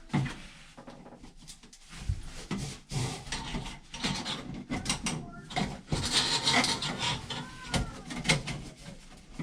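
Irregular rubbing, scraping and knocking of hands working a flexible aluminum dryer vent hose onto its metal fittings, with scattered sharp clicks.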